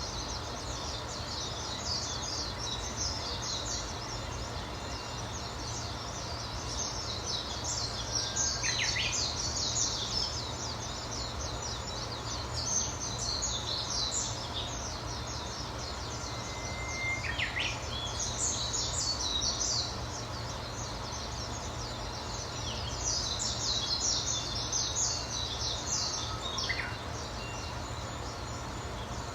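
Wild birds chirping and singing in bouts of rapid, high-pitched chirps, with a few separate lower notes in between, over a steady low background hiss.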